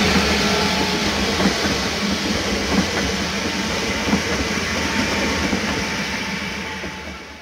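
Pesa ELF2 electric multiple unit running past at speed: a steady rumble of wheels on rail with a few clacks over rail joints. It fades away as the last car goes by near the end.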